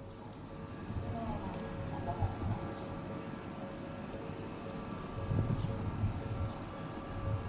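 Steady, high-pitched shrill of insects, unbroken throughout, over irregular low rumbling.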